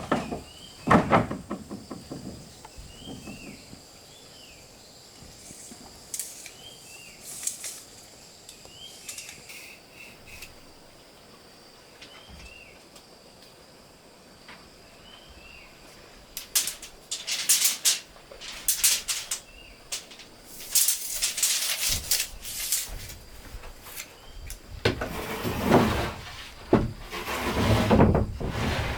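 A small bird chirps over and over against faint steady high tones. Several bursts of rough, rasping noise break in, mostly in the second half.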